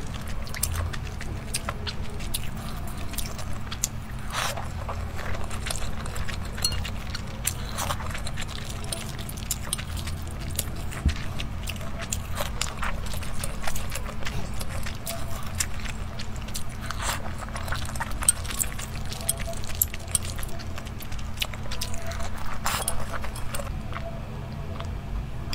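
Close-miked eating: wet chewing and mouth sounds of dumplings in red chili sauce, a steady run of small crackling clicks over a low hum.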